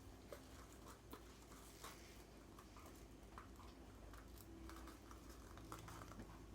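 Near silence: room tone with a low hum and faint, scattered light clicks and ticks.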